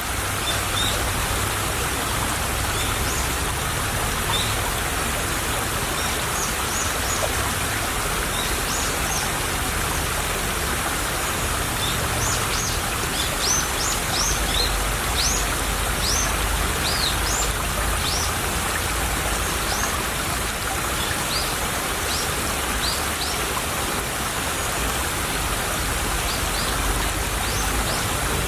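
Small stream trickling and babbling steadily over stones. Short, high bird chirps come in over it, thickest in a run through the middle.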